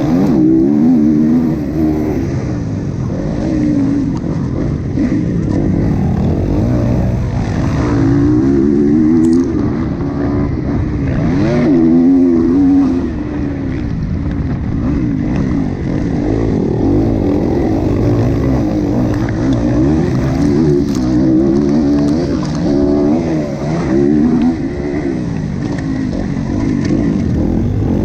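Motocross bike engine revving up and down again and again as it is ridden hard around a race track.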